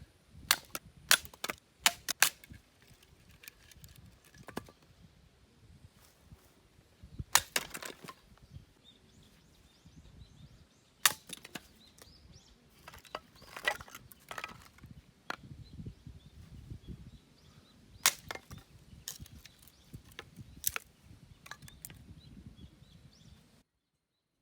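Firewood being split: sharp knocks and cracks of wood being struck and breaking. A quick run of about five strikes comes in the first couple of seconds, then single strikes every few seconds with handling rustle between them.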